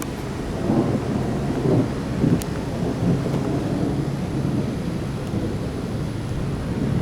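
Thunder rumbling low, swelling for a couple of seconds about a second in, over the steady rush of a thunderstorm.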